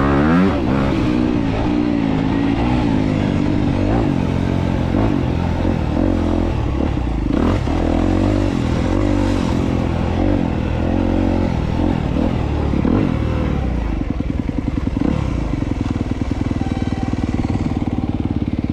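2022 Honda CRF250R's single-cylinder four-stroke engine under way on a trail, its revs rising and falling with the throttle. For the last few seconds it settles into a steadier low beat.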